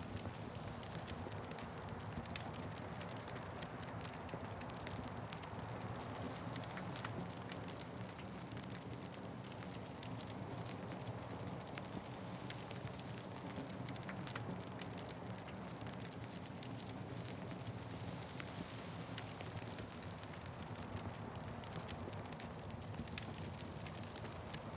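Wood fire crackling, with many small irregular snaps over a steady low rush of flame.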